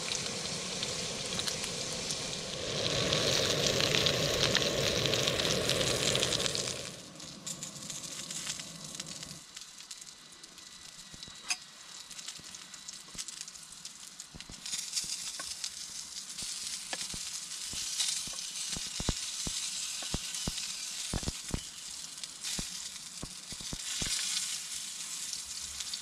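Hot dogs frying in olive oil in a Trangia camp stove's pan, a steady loud sizzle. About seven seconds in it drops to a much quieter level with scattered light clicks and taps.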